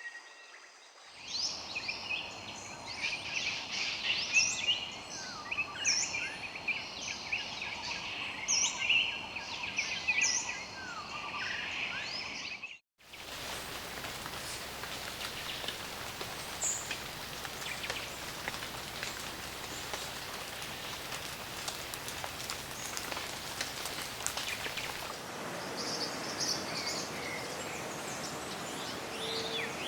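Many birds calling in quick chirps and whistles over a steady background hiss, which cuts off abruptly about halfway through. A dense, even hiss with only a few faint bird notes follows, and bird calls come back near the end.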